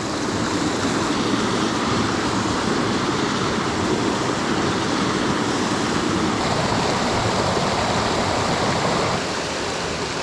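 Fast water of a mountain trout stream rushing steadily over rocks, a little quieter from about nine seconds in.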